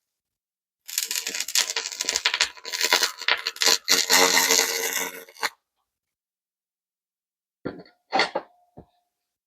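A 300 W pulsed laser ablating carbon deposits off a small engine's cylinder head: a dense crackling hiss with a steady buzzing tone under it. It runs for about four and a half seconds, then stops. A few short bursts follow near the end.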